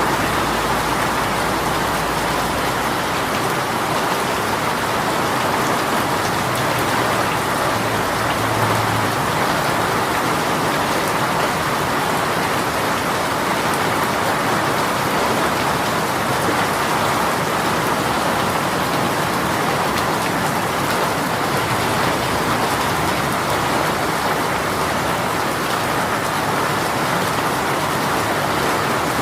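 Rain shower falling steadily, a dense, even patter of raindrops on surfaces.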